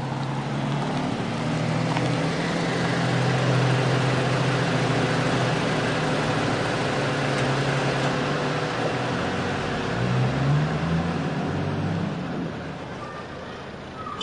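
Car engine running steadily as the car drives up and pulls in; about ten seconds in its note shifts lower and it grows quieter as the car settles.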